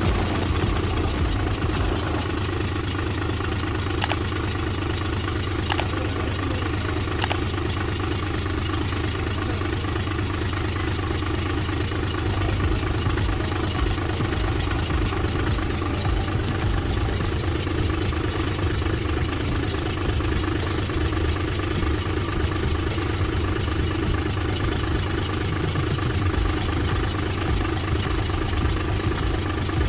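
Freshly overhauled Ashok Leyland H-series 180 HP bus diesel engine idling steadily at an even, unchanging speed.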